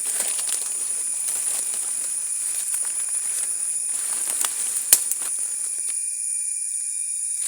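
Steady high-pitched insect chorus, with scattered crackles and clicks and one sharper snap about five seconds in.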